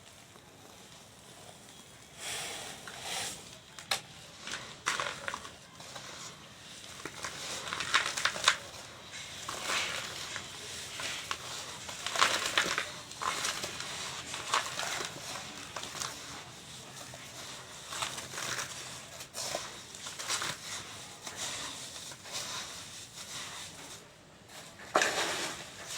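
Dry sand-cement crumbling and being crushed: gritty crackling in irregular bursts, with a few louder crunches.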